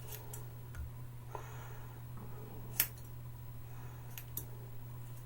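Hair-cutting scissors snipping through hair, about six short separate snips, the sharpest a little past the middle. The scissors are not the sharpest. A steady low hum runs underneath.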